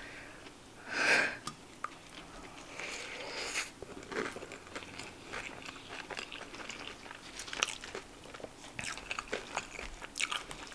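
Close-miked chewing of a mouthful of cheesy animal style fries topped with crushed Hot Cheetos: a bite about a second in, then chewing with many scattered crunchy clicks.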